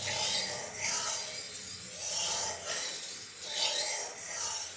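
Rhythmic rasping, rubbing strokes in the kitchen, roughly one a second.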